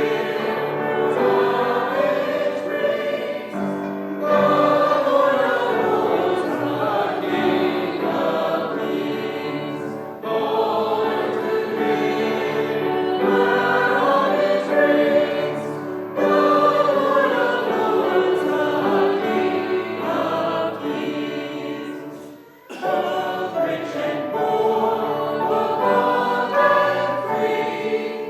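A church congregation singing a hymn together, in sung lines of about six seconds with short breaks between them.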